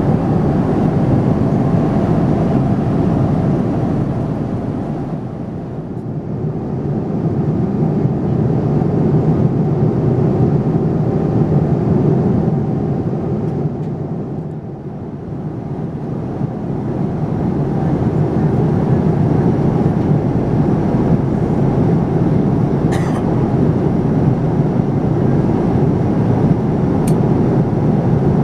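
Steady rushing drone inside the cabin of a Boeing 787-9 with Rolls-Royce Trent 1000 engines: engine and airflow noise. It eases off twice for a moment. Late on there is a brief faint high chirp, and near the end a click.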